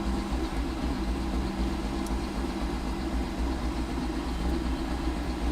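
Car engine running steadily at low speed: a low rumble with a faint steady hum that fades about four and a half seconds in.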